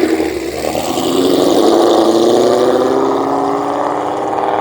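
A car engine accelerating hard as the vehicle pulls away, its pitch rising steadily in one continuous pull, loudest about halfway through and then starting to fade.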